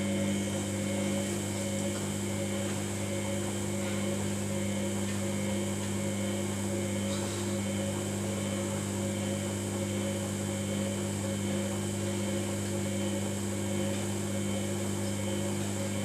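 Samsung front-loading washing machine running in service mode on its last spin cycle, giving a steady, unchanging hum.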